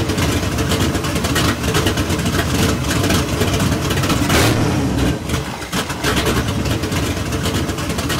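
Hot-rodded 1931 Ford Model A Roadster's 406 cubic-inch V8 running just after being started, with a louder burst about four seconds in.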